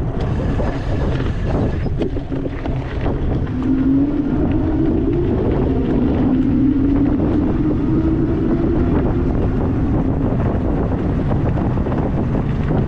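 Wind buffeting the microphone over the rumble of an EP-2 Pro e-bike being ridden, with a hum that climbs slowly in pitch from about three seconds in.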